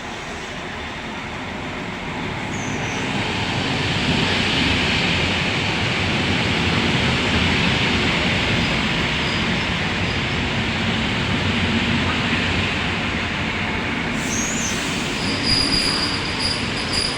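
Electric multiple unit train running along the rails with a steady rolling noise that builds over the first few seconds. Thin, high wheel squeal joins in near the end.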